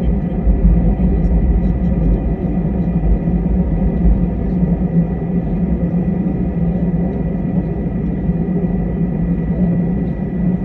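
Cabin noise inside an easyJet Airbus airliner: a steady engine and airflow rumble, with a thin high tone held throughout.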